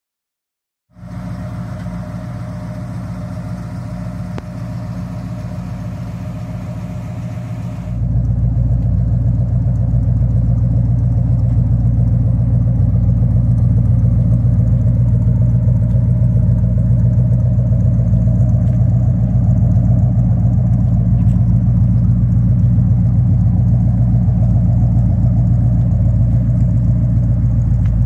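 1969 Plymouth Fury III's 318 V8 engine running at a steady idle, heard at its dual exhaust. It comes in about a second in and gets louder about eight seconds in.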